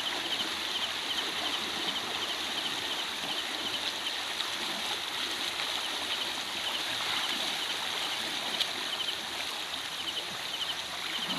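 Steady rush of flowing river water, with night insects chirping in short repeated trills.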